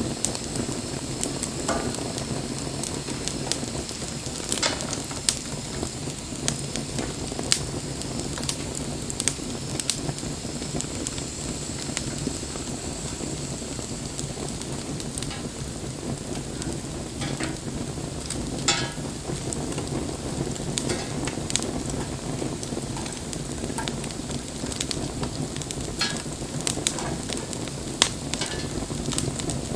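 Wood campfire burning: a steady hiss and rustle of flames, with irregular sharp crackles and pops from the burning wood, a few of them louder.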